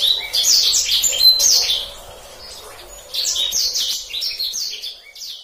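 Songbird singing a fast, rolling run of high chirps and down-slurred whistles. It breaks off for about a second midway, then resumes and fades out near the end.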